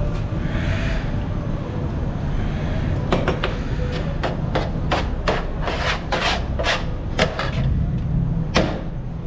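A string of sharp, irregularly spaced knocks, about a dozen over five seconds starting some three seconds in, over a steady low rumble.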